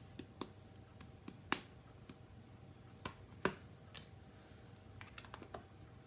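Scattered sharp taps and clicks of papercraft tools and card being handled on a tabletop, the loudest about a second and a half in and about three and a half seconds in, with a quick cluster of small clicks near the end.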